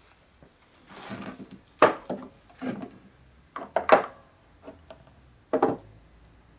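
Tools and small parts being handled on a workbench: a short stretch of rubbing about a second in, then a series of about six sharp knocks and clatters as pieces are moved and set down.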